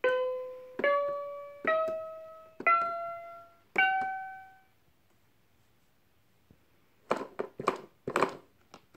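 Fisher-Price puppy activity table playing five electronic piano-like notes, each a step higher than the last and each fading out. About seven seconds in come several short plastic clicks and knocks.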